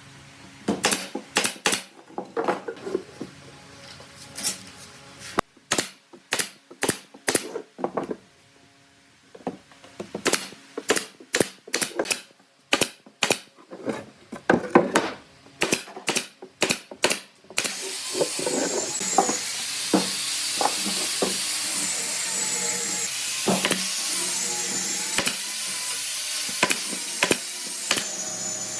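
A run of sharp, irregular knocks and taps in a workshop. About two-thirds of the way in, a power tool starts and runs steadily with a faint wavering high whine, the knocks still coming through here and there.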